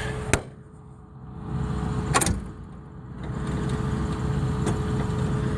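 Chrysler 318 industrial V8 in a Cockshutt 555 combine being cranked by the starter without firing; the engine is flooded. There is a sharp click early on and another about two seconds later, then a steady low cranking sound.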